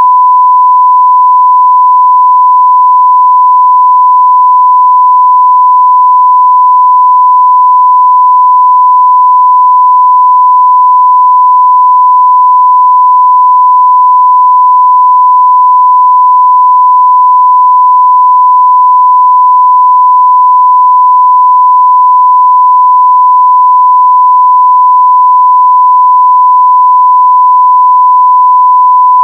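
Continuous 1 kHz sine-wave test tone at a steady, very loud level, a single pure pitch with no change.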